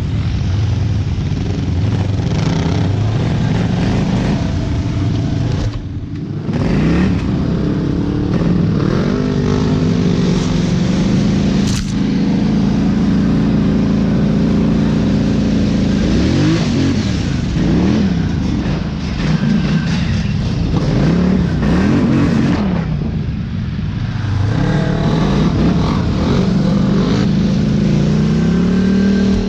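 Off-road vehicle engine revving up and down under load, its pitch rising and falling again and again. It briefly drops off about six seconds in and eases down around twenty-three seconds before picking up again.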